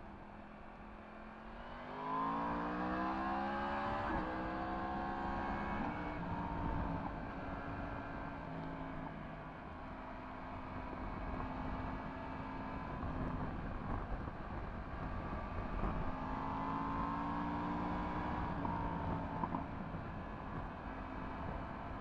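Yamaha MT-10 SP crossplane inline-four through an Akrapovič exhaust, accelerating through the gears on the move. The engine note rises about two seconds in and drops at a gearshift near four seconds. It holds fairly steady, then climbs again and drops at another shift near the end, with steady wind rush throughout.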